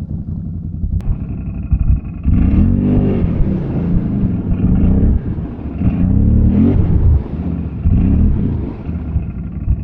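ATV engine revving over and over, its pitch climbing and dropping several times over a steady running drone.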